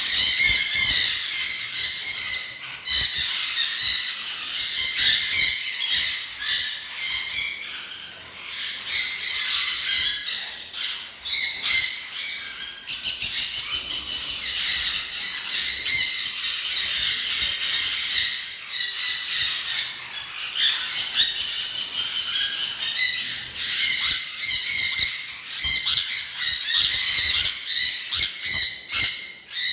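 A flock of birds calling all at once, many chirps and squawks overlapping in a continuous, dense chatter.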